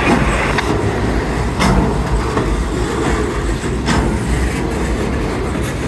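Freight train of loaded centerbeam flatcars rolling slowly past, a steady rumble of wheels on rail with three sharp clacks as wheels cross the track.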